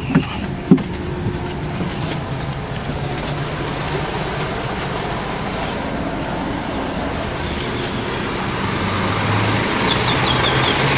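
A bus engine running steadily, growing louder near the end, with two sharp knocks right at the start.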